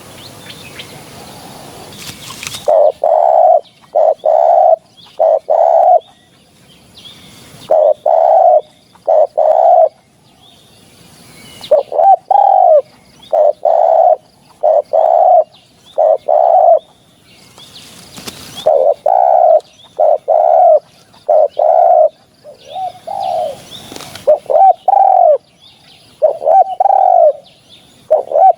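Spotted dove cooing in repeated phrases of several low coos, with short pauses between phrases. A burst of hiss-like noise opens the clip before the first phrase.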